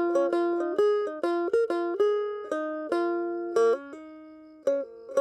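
Background music: a plucked string instrument, like a ukulele or mandolin, picking a repeating melody, the notes fading after each pluck.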